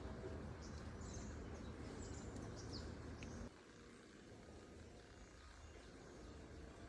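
Outdoor ambience: a steady low rumbling noise with a few faint bird chirps in the first couple of seconds. The rumble drops away abruptly about halfway through, leaving quieter background noise.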